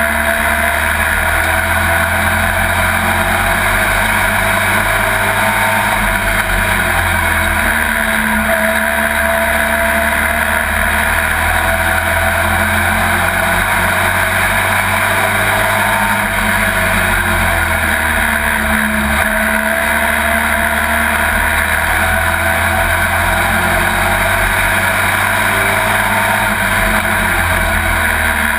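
Pro Truck race engine at racing speed, heard from inside the cab: a loud, continuous engine sound whose pitch rises and falls over and over as the truck accelerates and lifts for the corners.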